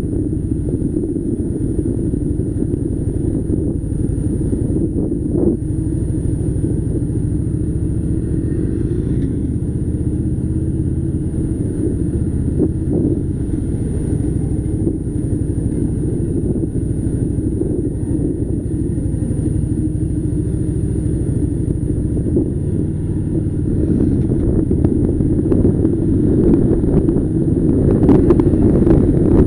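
Harley-Davidson Softail Slim's air-cooled V-twin engine running under way, getting louder in the last few seconds.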